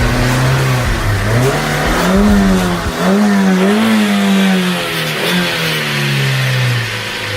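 Car engine revving, its pitch rising and falling in waves over several seconds.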